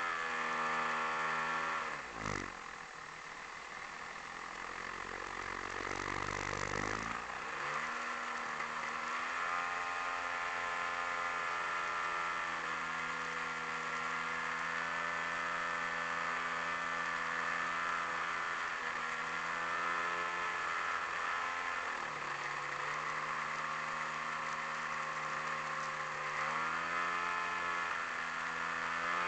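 The quarter-scale Super Cub's AGM 30 two-stroke petrol engine, heard close up from the onboard camera. It throttles down over the first two seconds, with a short thump just after. It runs low for a few seconds, opens up again around seven seconds and holds steady, then eases off briefly and picks up again near the end.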